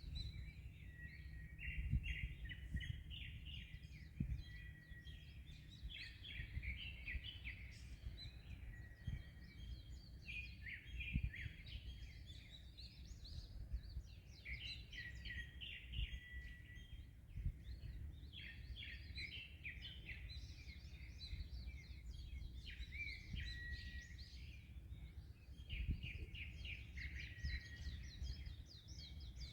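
Many small birds chirping and trilling continuously in a dense chorus, over a low rumble of wind and waves with scattered brief thumps.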